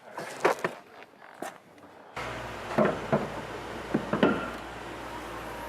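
Cabin air filter access being opened behind a car's glove box: a few scattered plastic clicks and knocks as panels and clips are handled. A steady low hum comes in suddenly about two seconds in.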